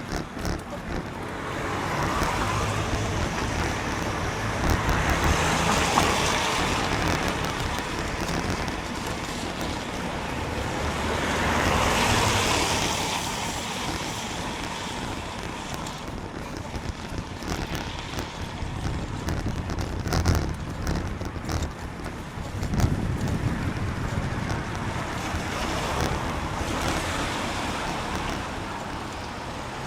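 Road traffic on a wet road heard from a moving bicycle, with wind noise on the microphone throughout and passing cars swelling up and fading, loudest about six and twelve seconds in and again near the end.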